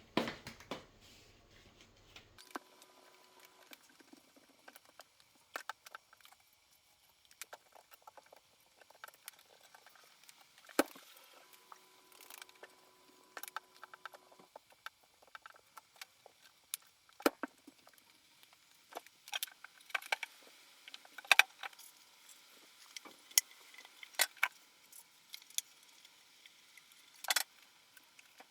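Irregular light clicks and taps, with a few sharper knocks, over a quiet background.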